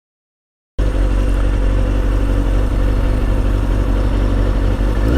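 Motorcycle engine running steadily with a heavy low rumble, cutting in abruptly about a second in after dead silence.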